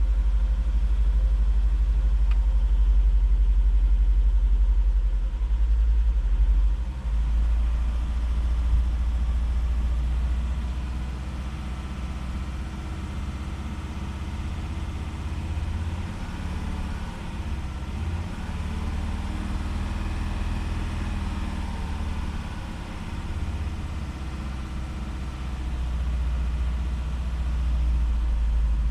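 Volvo 2.4 non-turbo inline five-cylinder petrol engine running at idle with an intermittent misfire on cylinder 1: a steady low rumble that drops somewhat in level after about seven seconds and rises again near the end.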